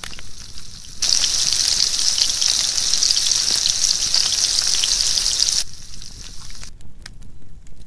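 Berries and meat sizzling as they cook: a loud, even hiss that starts suddenly about a second in and cuts off after about four and a half seconds, with fainter crackling before and after.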